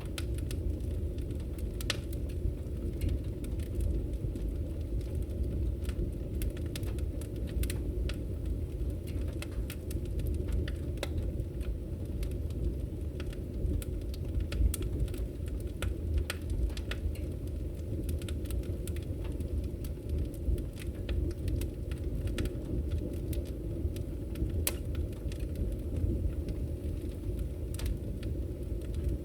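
Firewood burning: a steady low rumble of the fire with scattered crackles and pops at irregular intervals.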